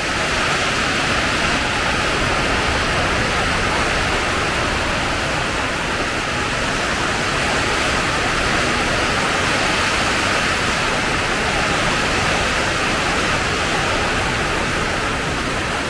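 Torrential monsoon rain pouring down, a dense steady hiss that stays even throughout.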